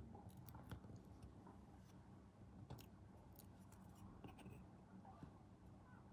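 Faint small clicks and light scrapes of hobby tools working on small plastic model parts, over a low steady hum.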